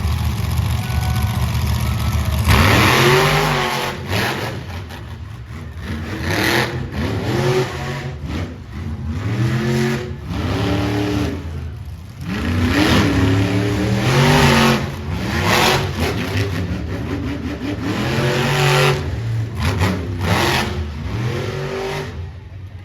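Monster truck engine revving hard again and again, its pitch climbing and dropping about eight times, with a loud rush of noise about two and a half seconds in.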